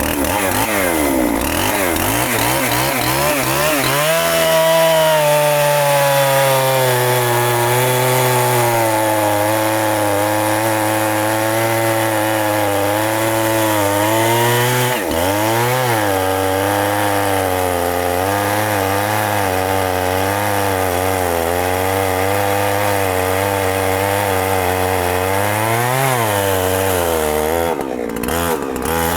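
Two-stroke chainsaw cutting steadily through a very thick tree trunk at high throttle. The engine pitch sags slowly under the heavy load, dipping and recovering briefly about halfway through and again near the end.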